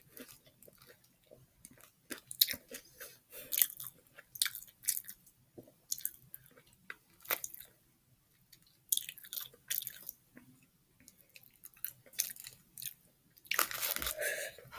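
Close-up chewing of a bite of fried chicken sandwich with pickle: irregular crisp crunches and mouth noises, pausing briefly a little past halfway. A longer, denser noise comes near the end.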